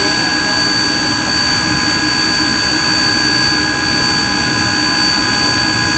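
Coal-fired steam locomotive standing still, a steady, unbroken hiss of steam with a continuous high whine over it.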